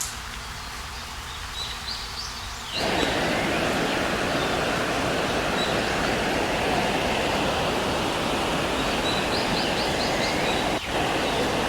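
Stream water rushing over rocks, a steady noise that jumps abruptly louder about three seconds in, with short bursts of bird chirps high above it near the start and near the end.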